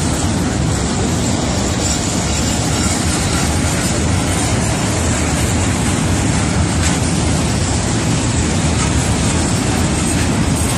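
Heavy goods train's wagons rolling past at close range: steel wheels running on the rails, making a loud, steady noise heaviest in the low end.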